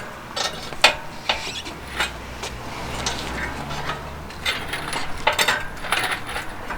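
Engine hoist at work lifting a Jaguar XJ6 engine: irregular metallic clicks and clanks, with a denser run of clicks in the second half.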